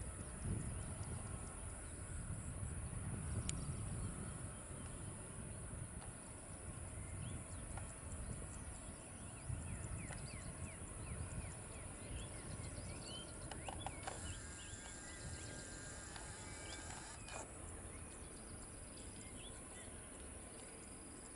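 Small birds chirping in many short rising calls, thickest in the middle, over a steady low rumble.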